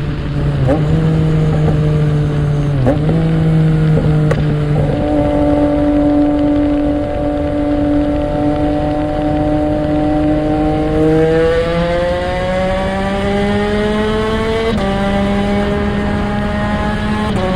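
2021 Yamaha MT-09's 890 cc inline-three engine through a loud Mivv X-M5 aftermarket exhaust, ridden in a tunnel. A few brief dips in pitch in the first seconds, a steady stretch, then the pitch climbs under acceleration and drops suddenly with an upshift near the end.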